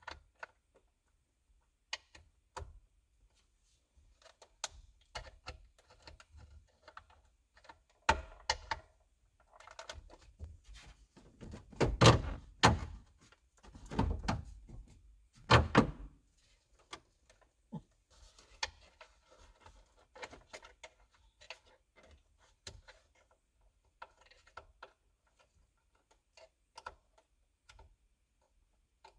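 Scattered clicks and knocks of hand tools and metal parts being handled while working a steering wheel off a Chevy Silverado pickup, with a run of heavier thunks in the middle.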